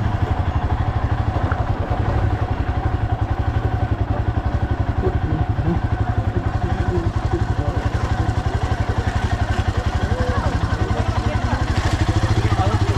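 Motorcycle engine running steadily with a rapid, even pulsing beat.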